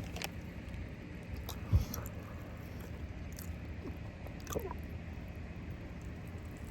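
Quiet chewing of rotisserie chicken, with a few faint clicks and one low thump about two seconds in, over a steady low hum.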